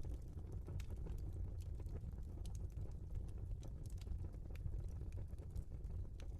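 Log fire in a fireplace crackling, with sharp irregular pops and snaps over a steady low rumble of burning.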